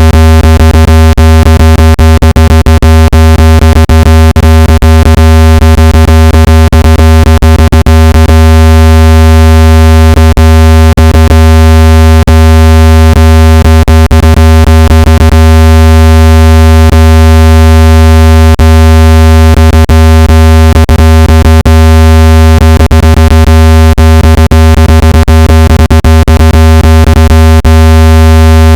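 Steady, very loud low electronic buzz played to shake dust and moisture out of a phone speaker, rich in overtones and unchanging in pitch, with frequent small clicks all through it.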